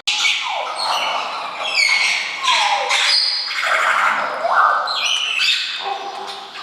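A group of water birds calling: harsh, overlapping squawking calls, several of them sliding down in pitch.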